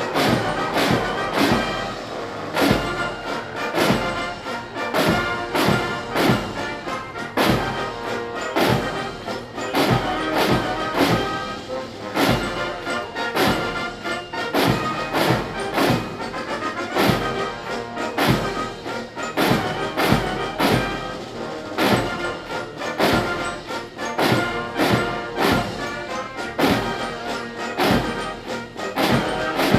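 Military band playing a march, brass over a steady drum beat of about two strokes a second.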